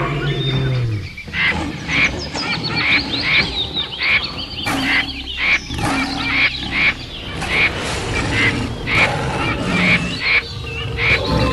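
Jungle wildlife ambience: an animal gives a short honking call over and over, about twice a second, with birds chirping high above it.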